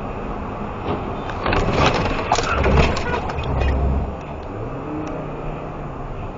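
Car driving with steady road noise; about a second and a half in, a cluster of loud bangs and crunching lasting about two and a half seconds, as in a vehicle collision, followed by an engine revving up and down.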